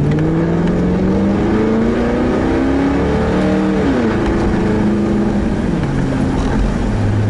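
Car engine heard from inside the cabin, pulling away and accelerating with a rising pitch, which glides down at a gear change about four seconds in. It drops lower again near the end as the throttle eases, over steady tyre and road noise on a wet road.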